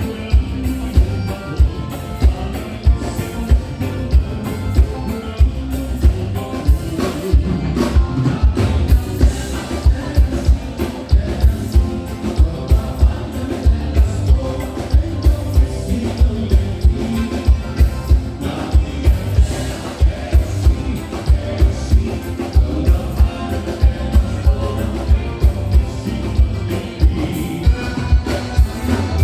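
Live band playing gaúcha dance music at full volume, with a steady, strong drum beat.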